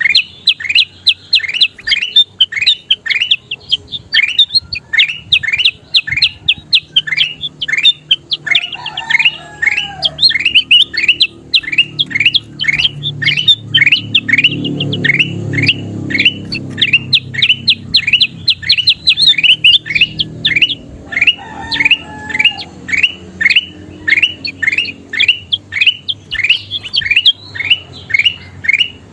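Kutilang emas, a bulbul, calling in a rapid, unbroken string of short, sharp notes that each drop in pitch, about three a second. A faint low rumble swells and fades around the middle.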